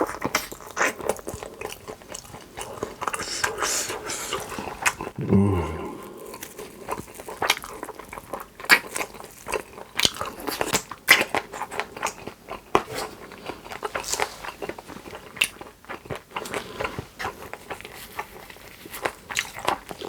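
Close-miked eating: biting and chewing with irregular crunches and smacking, plus a brief low sound falling in pitch about five seconds in.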